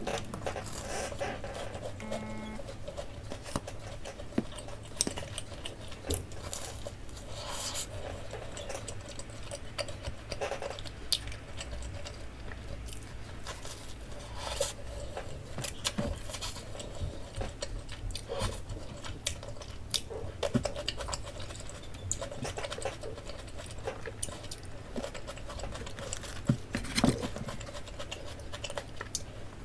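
Close-up clicks, taps, rustles and small scrapes of hands handling food and tableware, coming irregularly over a low steady hum.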